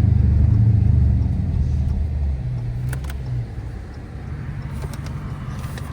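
Car engine droning heavily, heard from inside the car; about two seconds in the drone drops away to a quieter, steady low hum.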